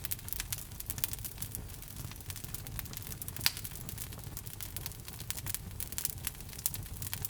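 Log fire burning in a fireplace, crackling with frequent sharp pops over a low rumble, one louder snap about three and a half seconds in.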